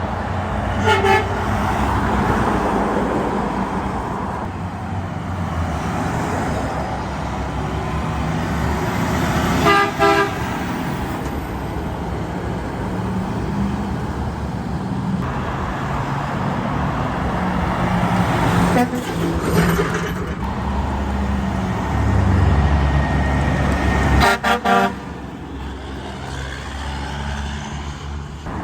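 Vehicle horns honking over the steady rumble of passing trucks and traffic: a short honk about a second in, a longer one around ten seconds, another near twenty seconds, and two quick honks about twenty-five seconds in.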